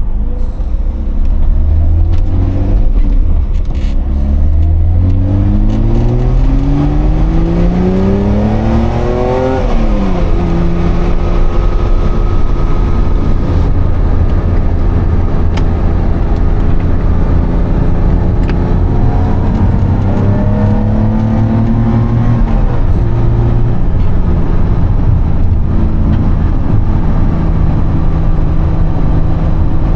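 A BMW E30 325i's M20B25 straight-six runs through an Eisenmann exhaust with the catalytic converter removed. It accelerates with rising revs for about ten seconds, the pitch drops sharply at a gear change, and it runs steadily for a while. Near the two-thirds point it revs up briefly again and drops at a second shift.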